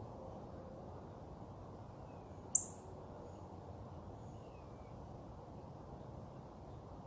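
A single sharp, high bird chirp about two and a half seconds in, followed by a few faint, thin downward-sliding calls, over a steady low outdoor background rumble.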